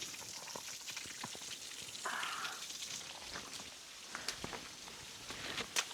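Footsteps wading through a shallow rocky stream over the steady trickle of the water, with scattered sharp clicks of stones underfoot and a couple of louder ones near the end.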